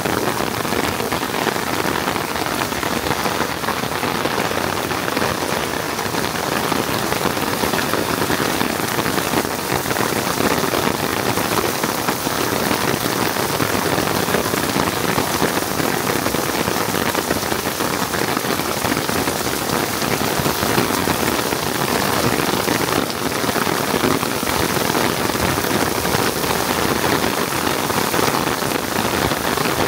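Heavy rain falling steadily, a dense, even hiss of drops striking the ground.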